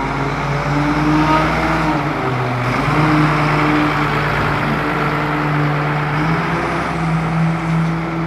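The diesel engine of a 1998 White-Volvo rear-loader garbage truck running steadily close by, its pitch shifting slightly a few times.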